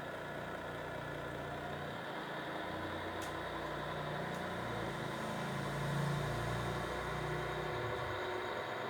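A just-started engine idling steadily with a low, slightly wavering hum that swells a little about six seconds in.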